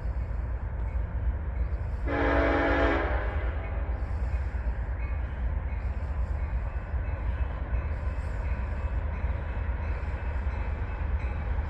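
Freight train's diesel locomotives running with a steady low rumble, and a locomotive air horn sounding one blast about a second long, two seconds in.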